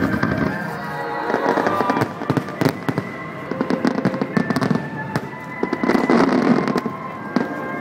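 Fireworks display: many bangs and crackles in quick succession, busiest in clusters around the middle and near the end, over music playing.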